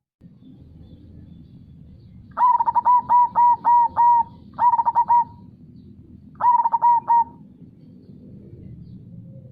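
Zebra dove (perkutut) cooing in three phrases of quick repeated notes: a long run of about six notes, then two short runs of two or three. Under it is the steady low rush of flowing river water.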